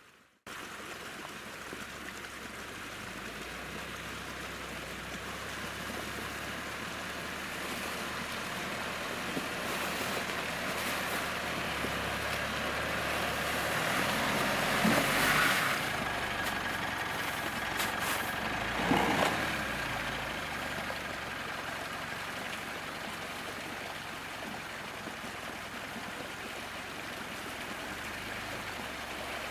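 Mitsubishi Pajero Sport's engine running as the SUV drives off-road, with a steady rush of tyre and slush noise. It grows louder towards the middle, where there are two short surges.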